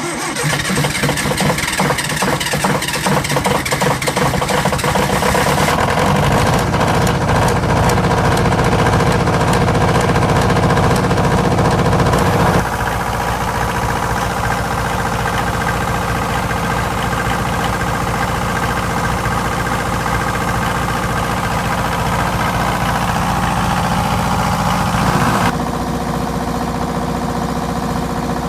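MEP-003A Onan air-cooled two-cylinder diesel generator running just after a cold start at 8 °F, after two months idle. Its level drops suddenly twice, about twelve and about twenty-five seconds in.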